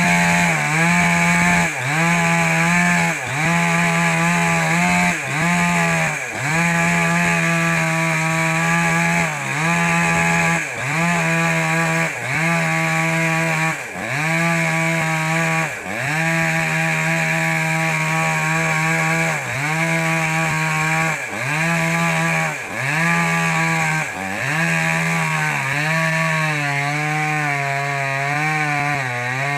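Small petrol chainsaw running at high revs and cutting wood. Its engine note dips briefly under load and recovers every one to two seconds.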